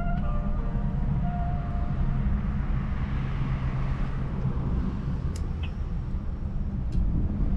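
Motorcycle engine running, a steady low rumble, with a few sharp clicks in the second half.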